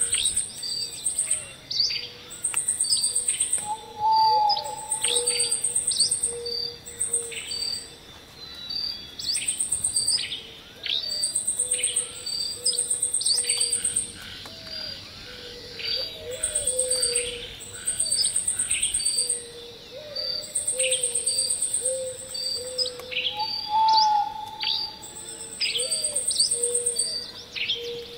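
Birds chirping and calling in a layered nature ambience, with many short chirps and repeated high buzzy trills about a second long. The same calls come back about twenty seconds apart, as in a looped soundscape.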